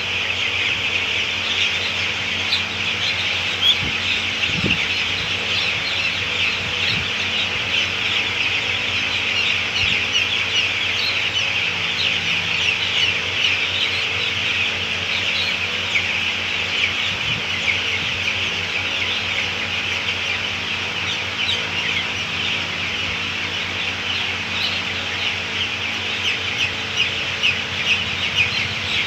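A large flock of chickens in a poultry farm shed, calling continuously in a dense chorus of high-pitched cheeps.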